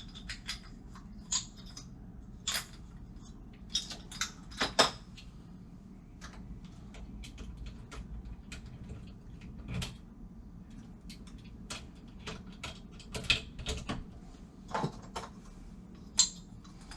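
Small metal lock parts and tools being handled, with irregular clicks, taps and clinks, a few louder knocks about a third of the way in and again near the end.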